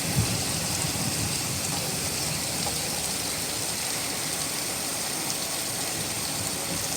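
Steady rainfall hissing, with the low rumble of thunder dying away in the first second or so.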